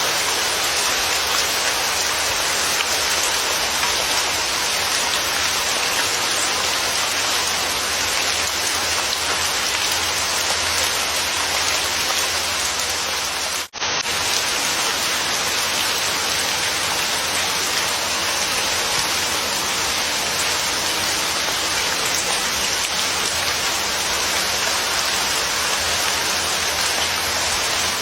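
Steady, heavy rain falling, a dense even hiss. It cuts out for an instant about halfway through, then resumes unchanged.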